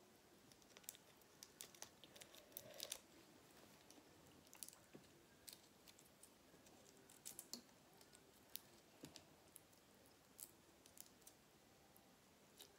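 Faint close-up mouth sounds of a person chewing food, with scattered soft clicks and smacks at an irregular pace.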